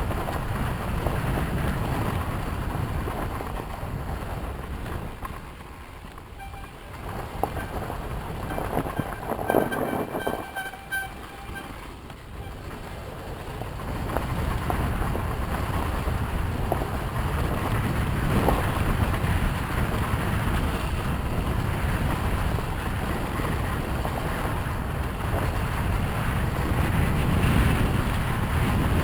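Yamaha YZ250FX four-stroke single-cylinder dirt bike riding, its engine mixed with wind buffeting the microphone. The sound drops away for several seconds about a fifth of the way in, then builds back up and runs on steadily.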